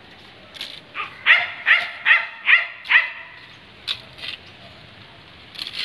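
A dog barking about five times in a quick run, a little over a second in, with a few short sharp sounds before and after.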